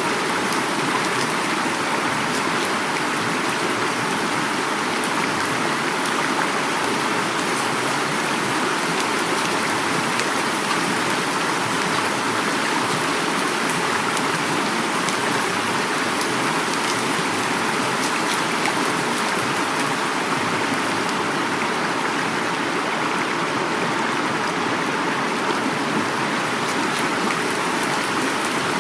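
Heavy rain falling together with a flowing river or stream, a steady dense rushing wash with fine pattering drops.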